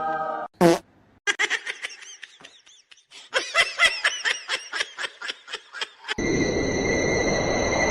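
Rapid giggling laughter in quick breathy pulses, after one short loud squeal. About six seconds in, the laughter cuts off and a steady loud hissing, whirring noise with a high whine takes over.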